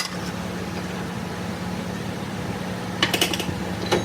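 A machine running with a steady low hum, with a click at the start and a quick cluster of sharp metallic clicks about three seconds in.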